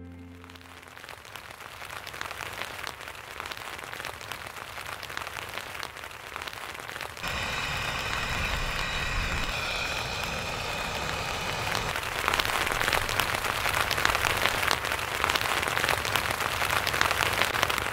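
Rain falling on an MSR tent's fabric, heard from inside: a steady hiss of countless small drop hits that grows louder toward the end. For about four seconds in the middle a gas canister stove burner runs under a cooking pot, a steady hiss with a low rumble that starts and stops abruptly.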